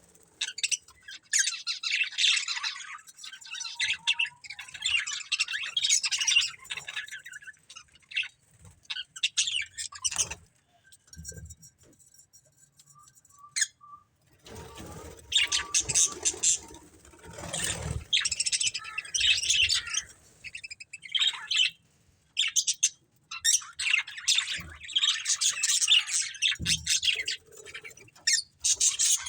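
A pair of budgerigars chirping and chattering in bursts, with a lull about halfway through. A few short knocks come among the chirps.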